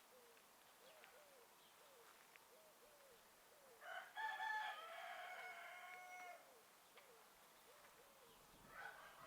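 A rooster crowing once, a call of about two and a half seconds in the middle, over faint short calls repeating about twice a second.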